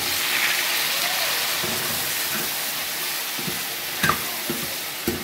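Chopped tomatoes hitting hot oil and onions in a kadhai, sizzling as soon as they go in and continuing steadily while being stirred. A spatula knocks against the pan a few times near the end.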